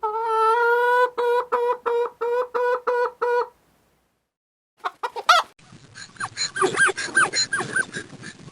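Poultry calling: one held call, then a run of about eight short, evenly spaced calls. After a brief silence comes a busier stretch of many overlapping squawks.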